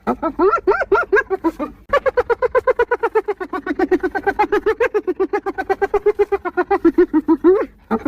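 Spotted hyena giggling: rapid runs of short, pitched yelping notes, about eight a second, wavering up and down in pitch. A brief break comes about two seconds in, then one long run that stops near the end.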